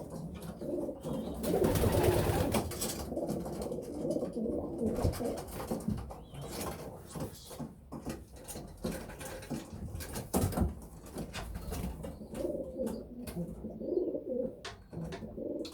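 Racing pigeons cooing in a loft, with scattered clicks and knocks and a brief rushing noise about two seconds in.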